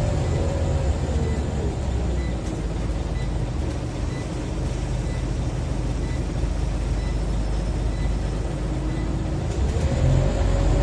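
Scania OmniCity bus engine and ZF automatic gearbox heard from on board, a steady deep rumble under a drivetrain whine. The whine falls in pitch over the first couple of seconds, holds lower through the middle, then rises again near the end as the bus picks up speed.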